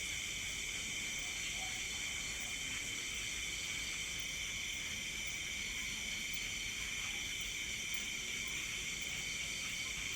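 Steady, high-pitched chorus of night insects, several layers of buzzing and trilling that run on without a break.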